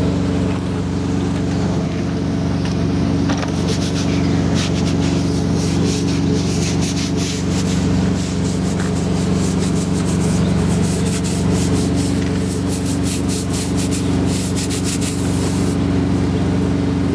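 Quick, repeated rubbing strokes of hand cleaning, from about three seconds in until near the end, over the steady idle of the Peterbilt 386's Cummins ISX diesel engine.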